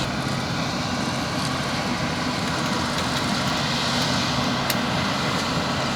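New Holland 8070 combine harvester running with a steady, dense mechanical noise, with a faint click a little before the end.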